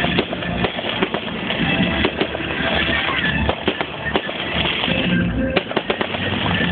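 Fireworks going off in quick, irregular succession, many sharp pops and crackles over a continuous rumble, with music playing at the same time.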